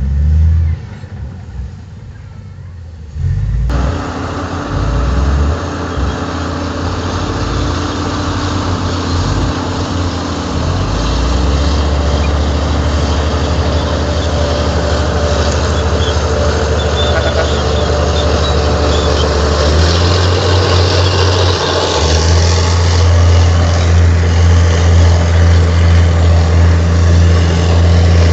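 Heavy diesel earthmoving machinery working: a low engine drone under broad mechanical noise, which jumps up suddenly about four seconds in and grows louder and deeper-toned twice near the end as the engine takes more load.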